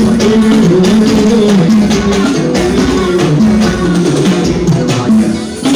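Live band music with guitar, a melody line moving up and down, and a steady drum-kit beat; it dips briefly near the end.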